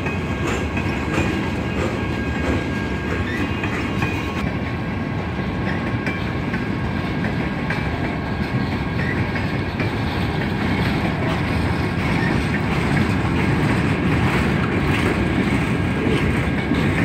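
Freight cars rolling past at speed: a steady rumble of steel wheels on rail, with faint clicking as the wheels cross rail joints.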